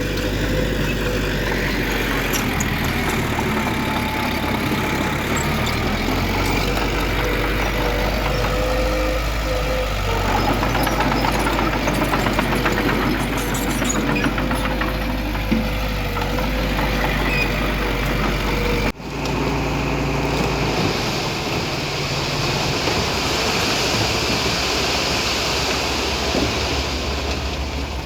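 Heavy diesel earthmoving machinery running steadily, with a thin steady whine over the engine in the first part. About two-thirds of the way through the sound cuts abruptly to a different engine sound with more hiss.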